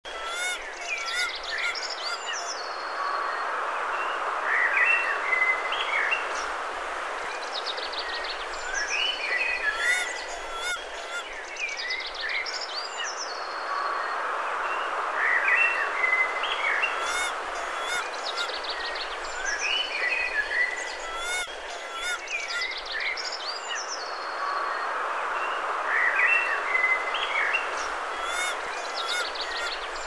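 Birds chirping and trilling again and again, with short rising and falling calls and quick high trills, over a steady background hiss.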